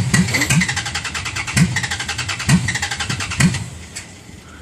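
Dodge Ram's carbureted engine being cranked by the starter on a cold hard start. It turns over in a fast, even rhythm with a few louder chugs but does not catch. The cranking stops shortly before the end.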